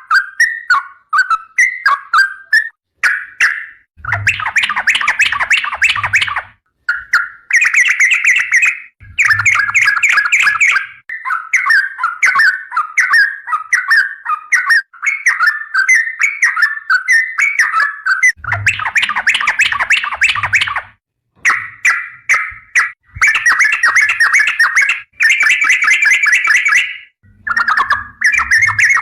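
Yellow-vented bulbul (trucukan) singing almost without pause: a loud, rapid, bubbling chatter of warbling phrases. The song comes in several louder, denser stretches of a few seconds each, with short gaps between phrases.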